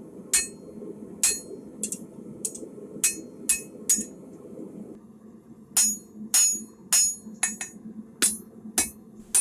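Hand hammer striking hot rebar steel on an anvil, about fourteen ringing blows at roughly two a second with a short pause midway, as the blade is squared up. A steady low hum runs underneath.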